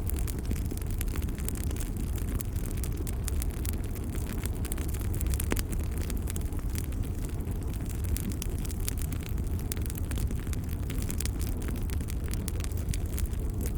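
Wood fire burning steadily in a fireplace, a low rumble of flames with frequent small crackles and pops.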